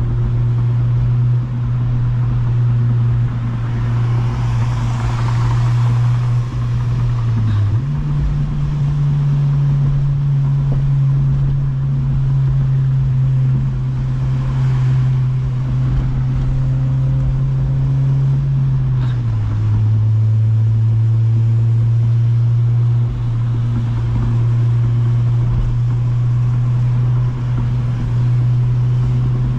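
8th-generation Honda Civic Si's 2.0-litre four-cylinder engine and exhaust droning steadily at cruise. The pitch steps up about eight seconds in and drops lower again near twenty seconds. Broad swells of hiss rise and fade twice.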